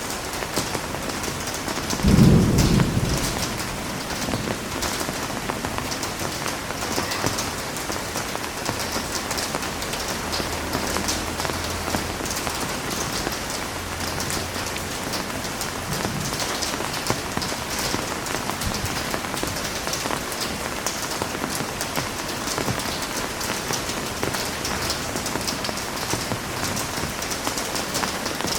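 Heavy rain falling steadily. About two seconds in, a short, low rumble of thunder, the loudest moment, fades out within a couple of seconds.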